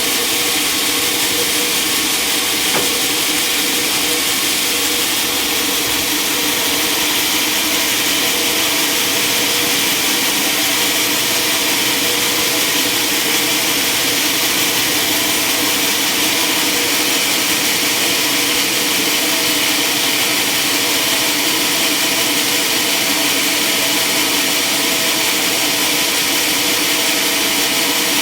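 Sawmill saw running steadily, a continuous whine and hiss with no break, as it cuts through timber.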